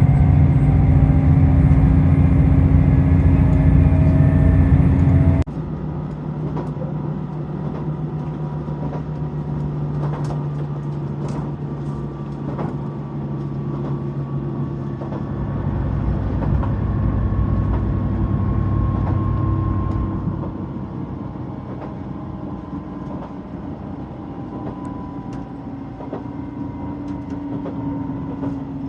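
JR Shikoku 2000 series diesel railcar running: its engines and wheels on the rails make a steady noise. The sound is loud at first, drops suddenly about five seconds in, and continues as a quieter steady running sound with occasional faint clicks.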